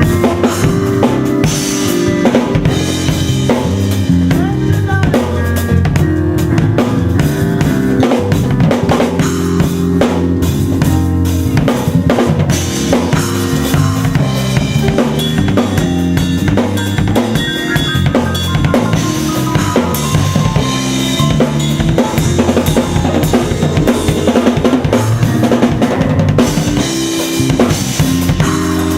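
Live band jamming: a drum kit played busily, kick and snare prominent, over a bass line moving in stepped low notes.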